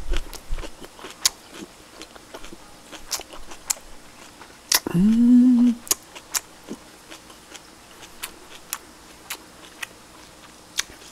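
A person eating, with scattered small clicks and mouth noises of chewing, and one short hummed vocal sound about five seconds in.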